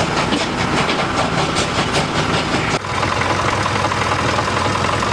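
Train running on rails with a quick, rhythmic clatter. About three seconds in, the sound changes abruptly to a steadier running noise with a faint whine.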